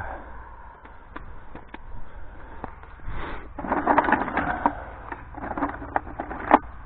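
Wooden fence brace being handled and fitted against a post: scattered light knocks, then bursts of scraping, rustling and wood-on-wood clunks, with one sharp knock near the end.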